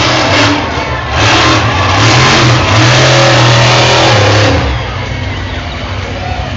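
A large vehicle engine revving hard. It surges briefly near the start, then holds a loud rev for about three seconds before dropping back to a lower running sound.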